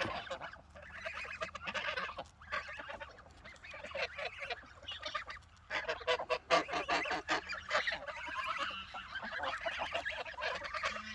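A flock of Toulouse geese honking and cackling in a dense, overlapping chorus, louder for a stretch about six seconds in.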